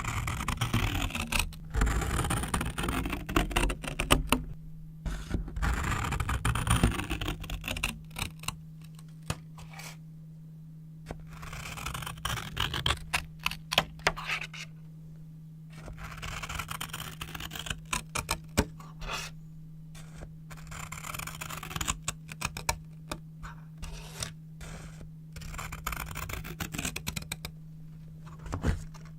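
Brown paper being handled and cut with scissors: bursts of crisp rustling and scraping lasting a few seconds, separated by quieter pauses and peppered with sharp snips and clicks.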